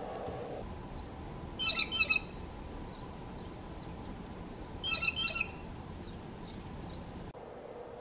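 A bird calling twice, about three seconds apart, each call a quick pair of notes.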